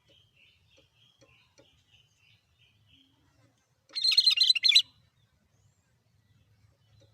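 Cucak kerinci calling: faint, evenly repeated short notes, then about four seconds in a single loud, harsh, rapid chattering call lasting under a second.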